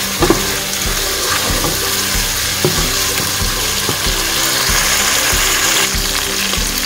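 Chicken frying down in a thick onion, tomato and yogurt masala in a pot: a steady sizzle, with a wooden spatula scraping and tapping against the pot as it stirs.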